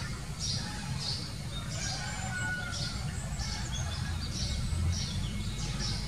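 Small birds chirping: a string of short, high chirps, roughly two a second, over a steady low background rumble.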